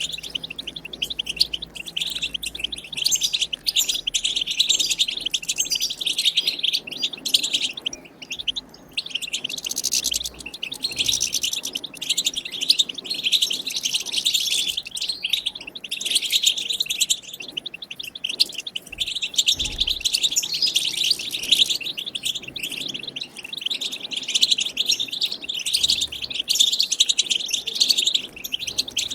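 European goldfinch song: rapid, continuous twittering and chattering.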